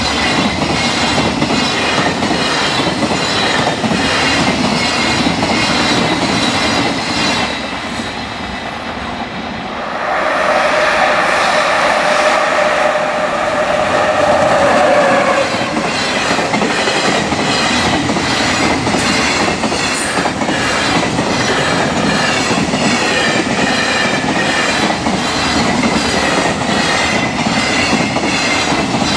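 Freight train's container wagons running past at speed, their wheels clattering over the rail joints in a steady, fast rhythm. About ten seconds in, a loud held pitched tone sounds for some five seconds. Then the rapid joint clatter of passing wagons resumes.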